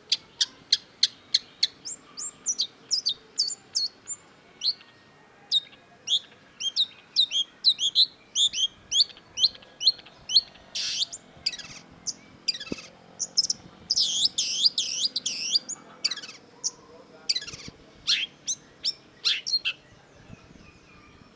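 Long-tailed shrike singing a fast, continuous run of sharp chirps and whistled notes, broken by harsh, scratchy phrases partway through.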